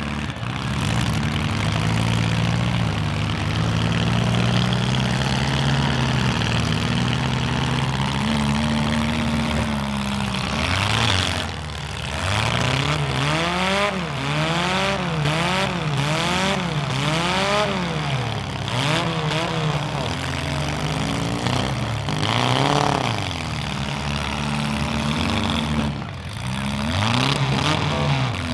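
Demolition derby compact car engines, running steadily at first, then revved up and down over and over, about once a second, as the two cars push against each other. A few sharp bangs are heard among the revs.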